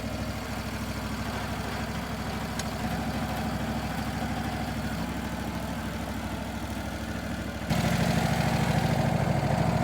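Wood-Mizer LT15 Wide portable sawmill's gas engine running steadily at low speed, then getting suddenly louder about three-quarters of the way through and staying there.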